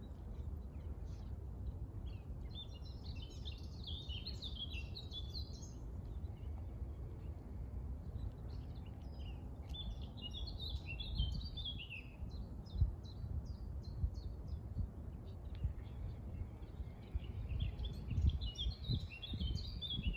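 A songbird singing three bursts of rapid, high twittering phrases, a few seconds apart, over a steady low rumble of wind on the microphone.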